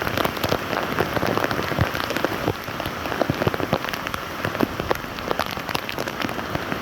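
Rain falling steadily, with many separate drops striking a surface close by as irregular sharp ticks over a constant hiss.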